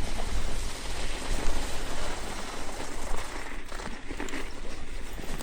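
Wind buffeting the microphone of a moving electric bike, a gusty low rumble, with tyre noise through snow and slush underneath.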